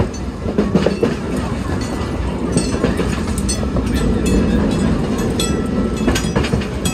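Passenger cars of a steam train rolling along the track, heard from the tail of the train: a steady rumble of wheels on rail with scattered clicks and a few brief high squeaks.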